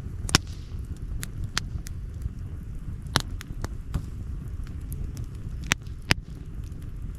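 Outdoor wood campfire crackling: irregular sharp pops and snaps over a low steady rumble, with the loudest pops about a third of a second in and near the end.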